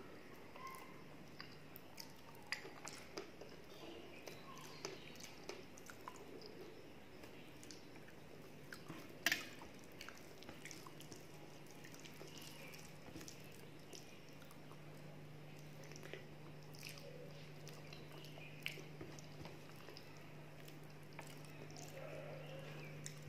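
A person eating soft khichuri with the hand: quiet chewing and wet mouth sounds, with small scattered clicks of fingers working food on a steel plate and one sharper click about nine seconds in. A faint steady low hum gets a little louder in the second half.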